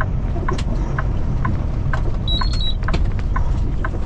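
Kenworth T680 truck's turn signal ticking about twice a second over the steady low rumble of the running diesel engine in the cab. A brief high beep sounds a little past two seconds in.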